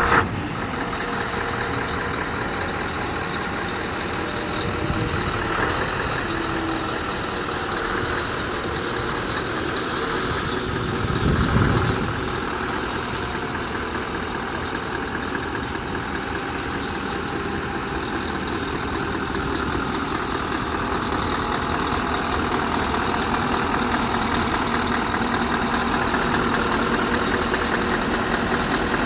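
Scania R620's 16-litre V8 diesel idling steadily just after being started, with a brief swell about twelve seconds in and a slow rise in level toward the end.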